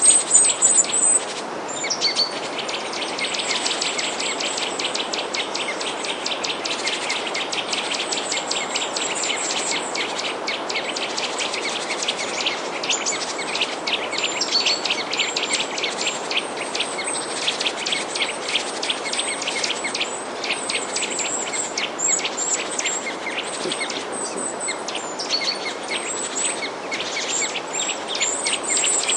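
Small birds chirping and twittering rapidly in a dense chorus, with short high notes over the top, over a steady background hiss.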